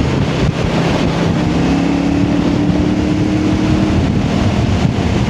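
Motorcycle engine running at a steady road speed, with wind noise rushing over the microphone.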